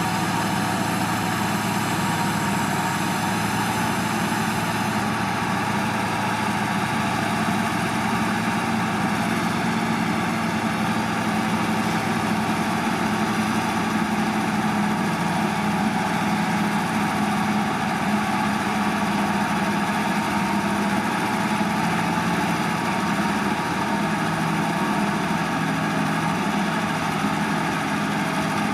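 Heavy earthmoving machine's diesel engine running at a steady speed, a constant drone with no revving.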